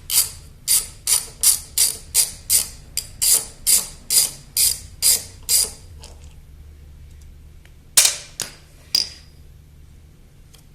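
Ratchet wrench clicking steadily as it backs out bolts on a lawnmower engine, about three clicks a second for six seconds before stopping. Three sharper metal clicks follow near the end.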